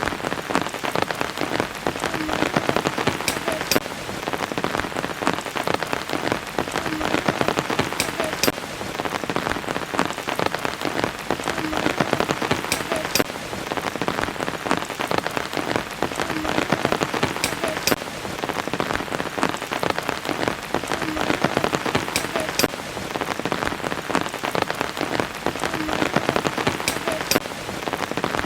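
Steady rain falling: a dense patter of drops, with scattered sharper single drips standing out.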